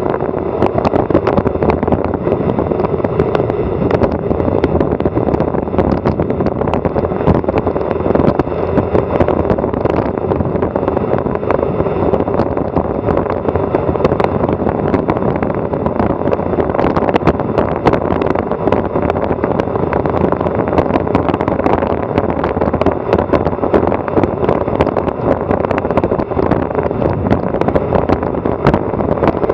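Wind rushing over an action camera's microphone during a fast bicycle descent, mixed with steady tyre and road noise and frequent small clicks and rattles.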